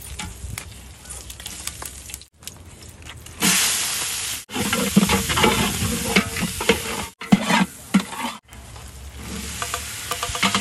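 Onions frying and sizzling in hot oil in a large aluminium pot, stirred and scraped with a long metal ladle. The sizzle jumps much louder about three and a half seconds in, and a few brief silent gaps break it up.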